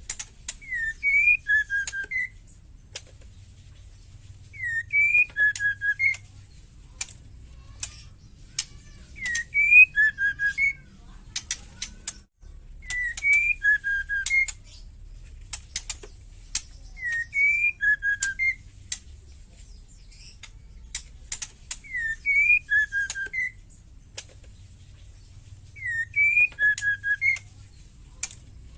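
Female white-rumped shama calling: a short whistled phrase of a few rising and falling notes, repeated about every four seconds, with sharp ticking clicks in between.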